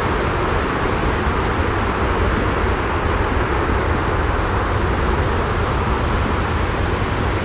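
Steady jet white noise, a continuous unchanging hiss over a strong deep rumble.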